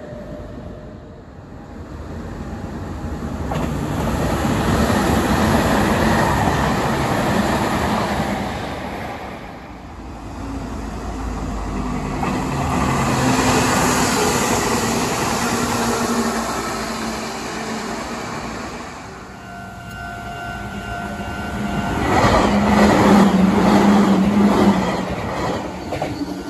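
Meitetsu electric trains passing one after another: the rumble of wheels and motors swells and fades three times. Steady humming tones join in about twenty seconds in.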